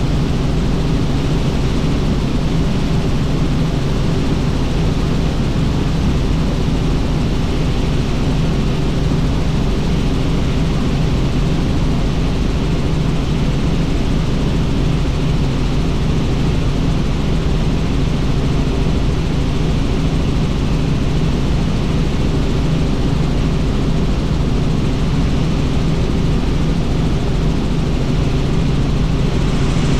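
Helicopter in flight: steady engine and rotor noise with a constant low hum.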